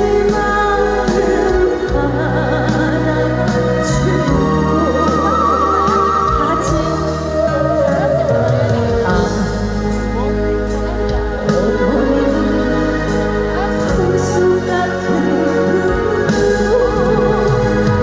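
Live song: a woman sings with vibrato over instrumental backing with steady bass notes.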